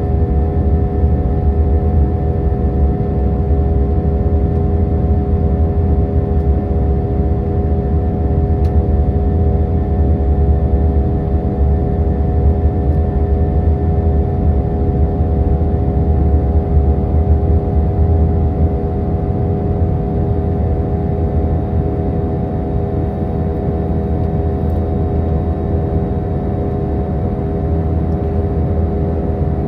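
Airbus A319 jet engines heard inside the cabin: a steady loud rumble with several steady whining tones over it.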